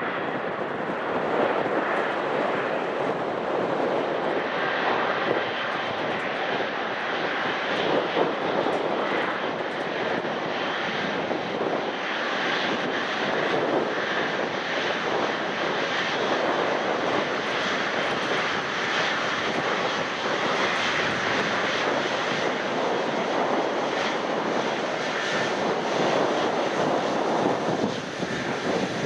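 Jet airliner engines running at an airport, a steady loud rush of noise that eases slightly near the end.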